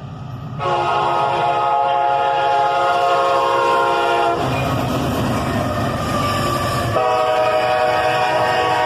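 Diesel locomotive air horn sounding a chord of several notes: a long blast of about four seconds, a break of about two and a half seconds with the train's low rumble, then a second long blast.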